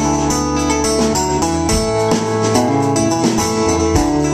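Live band playing an instrumental passage between vocal lines, with guitar and held keyboard or organ chords.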